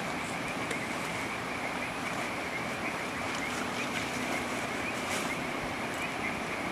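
Steady rain falling, with a continuous high trilling tone above it.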